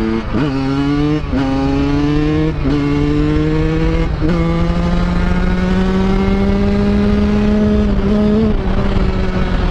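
Two-stroke dirt bike engine accelerating through the gears. Its pitch climbs and drops at several upshifts in the first four seconds, then pulls steadily higher for several seconds before easing off near the end, over wind noise.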